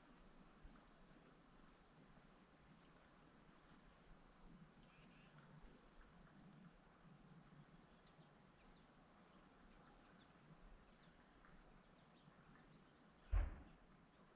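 Faint, very high, thin chirps from small birds, a short note every second or two. A single dull thump near the end.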